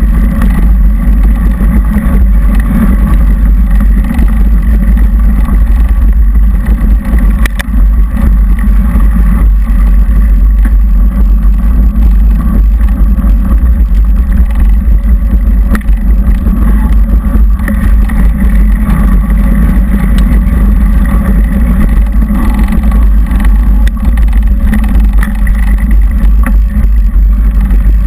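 Loud, steady low rumble of wind and trail vibration on a GoPro HD camera carried on a mountain bike while riding, with a few sharp knocks.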